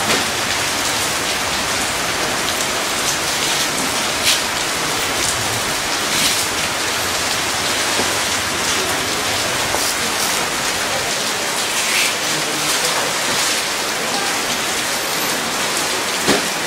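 Steady rain hissing, with now and then a brief louder rustle or patter.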